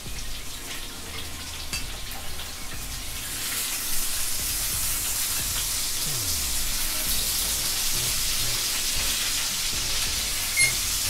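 Small potatoes sizzling in melted butter while a wooden spoon stirs them. The sizzle grows louder about three seconds in. A short ringing clink comes near the end.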